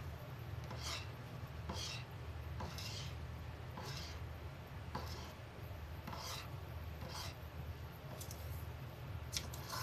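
A sun conure scratching and rasping at something: short scratchy rasps about once a second, over a steady low hum.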